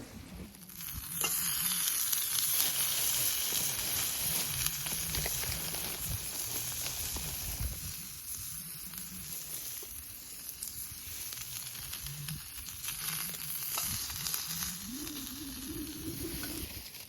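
Food sizzling in a frying pan over a campfire: a dense, steady hiss that starts about a second in and eases a little about halfway through.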